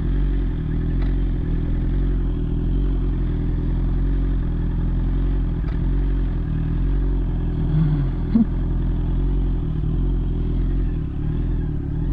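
Honda CB650R's inline-four engine idling steadily at constant pitch, with a few light clicks.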